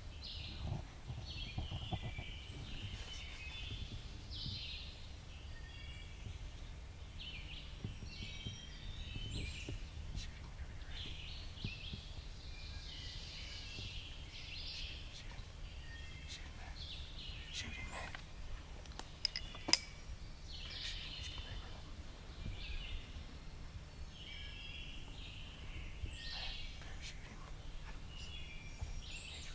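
Songbirds singing: a steady run of short, high chirping phrases from several birds over a low rumble. A couple of faint clicks come about two-thirds of the way through.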